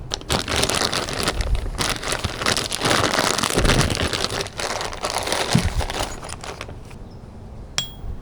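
Dense crinkling, crackling noise for about six seconds, then a single light metallic clink near the end.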